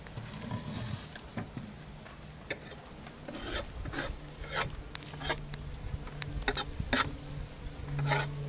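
Wooden beehive parts being scraped and pried apart, a run of short rasping scrapes and clicks, over a low steady hum of honey bees.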